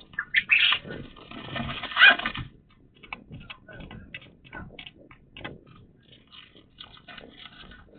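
Pet birds and their cage: a loud burst of scratching and calling-like noise over the first two seconds, then scattered light clicks and scratches.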